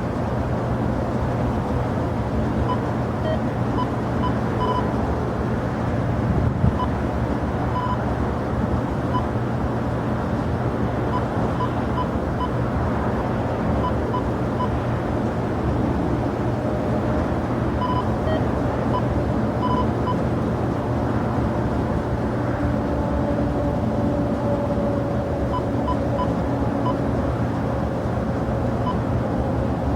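Steady rumble of jet aircraft engines at an airport, with a faint whine entering about two-thirds of the way through.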